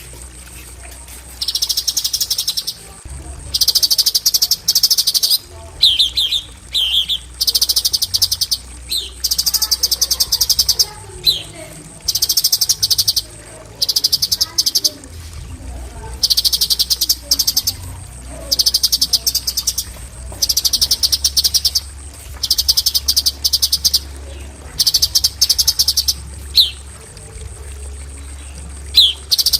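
Cucak cungkok singing its 'tembakan' song: loud bursts of very rapid high trilling, each about a second long, repeated every second or two, with a few short quick slurred notes between them.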